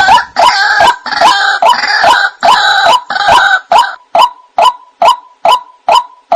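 White-breasted waterhen calling. A fast, dense run of croaking calls lasts about four seconds, then settles into single short notes repeated evenly, a little over two a second.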